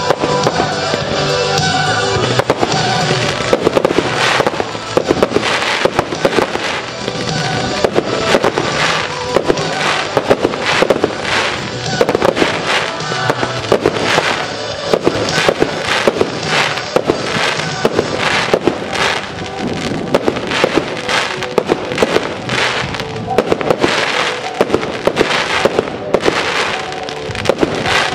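Aerial fireworks firing and bursting in a rapid string of sharp bangs and reports, with a music soundtrack playing underneath.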